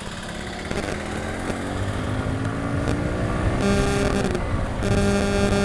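Motorcycle engine under way, its pitch rising slowly as it accelerates. Near the end a steady pitched tone, like a horn, sounds twice, the first short and the second longer.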